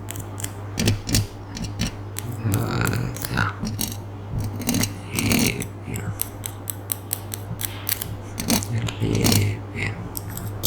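Close-miked ASMR triggers: an irregular run of sharp clicks and snipping, scratchy ticks, with a steady low hum underneath.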